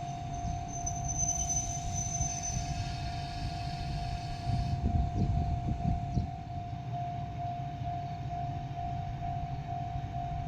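Shimabara Railway diesel railcar running on the line: a low rumble, a few wheel knocks in the middle, and a steady high tone that turns into a regular pulsing about two-thirds of the way through.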